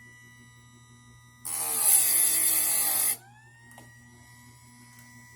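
Harbor Freight electric chainsaw sharpener's grinding wheel spinning with a steady whine, then brought down onto a saw chain tooth for about a second and a half of loud, harsh grinding. When the wheel lifts off, the motor's whine climbs back up to speed.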